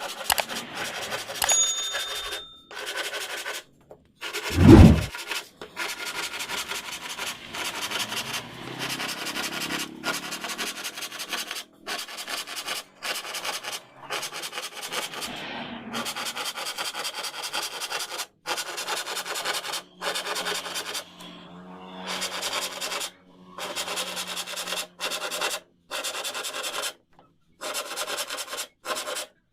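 Abrasive rubbing and rasping on wood, as when a wooden frame is sanded or rasped, in short stretches broken by abrupt gaps. There is one heavy low thump about five seconds in.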